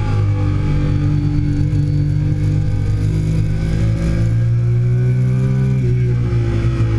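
2008 Triumph Daytona 675's inline three-cylinder engine running hard on track, its pitch drifting slowly up and down as the bike is ridden.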